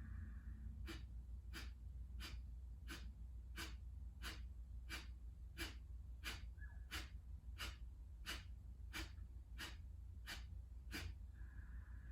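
Kapalabhati breathing: a run of about sixteen short, sharp forced exhales through the nose, evenly paced at about three every two seconds, with the passive inhales between them barely heard.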